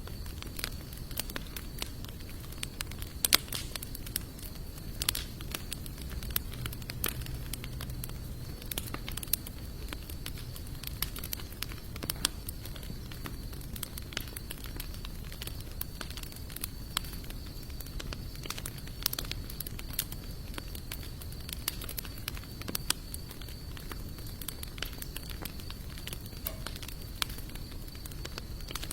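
Campfire of sawtooth oak and mixed hardwood logs burning, crackling steadily with irregular sharp pops.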